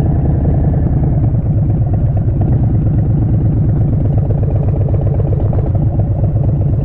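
Harley-Davidson Street Bob 114's Milwaukee-Eight V-twin running steadily through a Vance & Hines Short Shots full exhaust, a fast, even pulsing exhaust beat.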